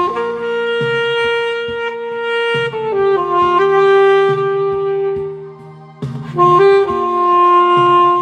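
Saxophone playing a slow melody in long held notes over a backing track with bass. The phrase fades out briefly about five to six seconds in, then the melody comes back in.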